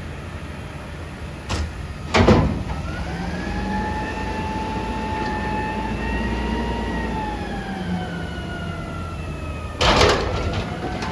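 Peterbilt 320 garbage truck working a pickup: the engine runs with a pitched whine that rises a little and then falls away over several seconds, as the hydraulics are worked. Two loud bursts of noise come at about two seconds in and near the end.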